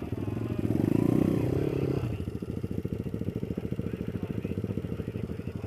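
Small single-cylinder off-road motorcycle engine idling with a steady, fast pulse, with a brief rise in revs from about half a second to two seconds in before it settles back to idle.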